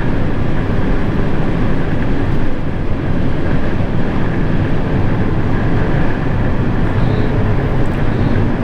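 Steady low rumble of a vehicle driving on the highway, heard from inside: engine, tyres and wind noise together.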